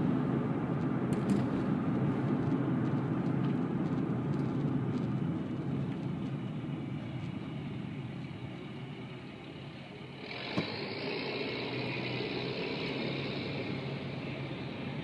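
Road and engine noise from inside a 2005 Honda Pilot's cabin while driving, a low rumble that eases off through the middle. About ten seconds in, a steady hiss starts abruptly, with a single click just after it.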